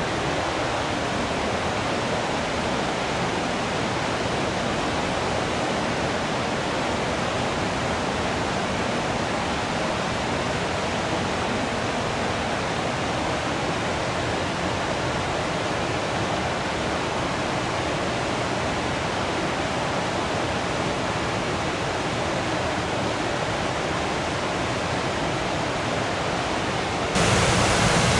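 Waterfall rushing in a steady, even roar of falling water. Near the end it abruptly jumps louder and brighter.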